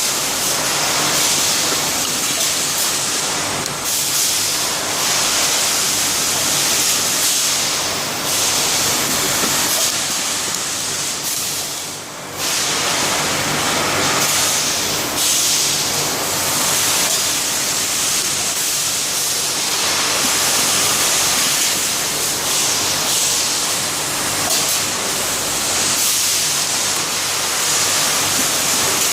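PSA-100 sock labelling machine running: a steady hiss with a faint low hum under it, dipping briefly about twelve seconds in.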